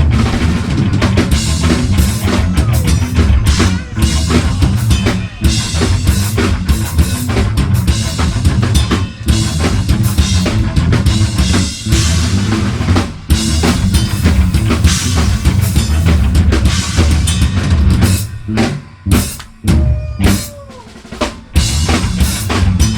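Live metal band playing, the drum kit loudest, with bass drum and snare hits driving the song. Between about 18 and 22 seconds the band breaks into short stop-start hits with brief gaps between them.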